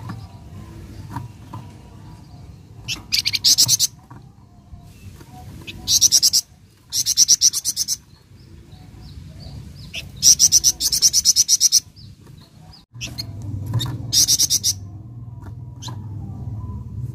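Flamboyan songbird singing in loud, fast trilled phrases, about five bursts of half a second to two seconds each, over a low steady hum.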